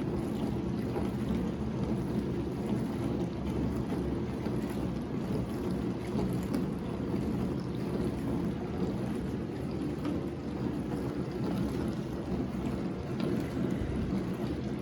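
Whirlpool WDF310PAAB4 dishwasher running its diagnostic test cycle: a steady rushing of water sprayed around the tub by the wash pump.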